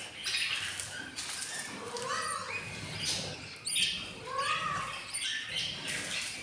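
Budgerigars calling: a string of squawking, rising-and-falling calls about one a second over constant scratchy chirping.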